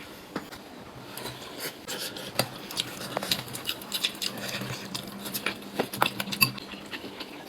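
Tableware clinking: utensils tapping and scraping against bowls and dishes in an irregular scatter of light clicks, with a faint steady hum underneath.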